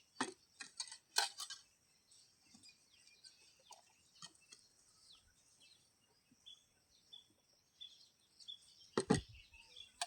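A few sharp clicks and knocks in the first second and a half, with faint short chirps of small birds in the background, then a heavier knock about nine seconds in.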